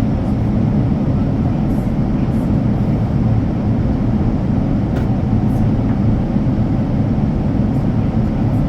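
Steady low rumble of a Boeing 787-9 airliner cabin: engine and airflow noise heard from inside, with a faint click about halfway through.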